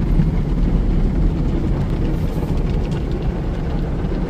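Tunnel car wash side brushes spinning and scrubbing along the car, heard from inside the cabin as a steady low rumble.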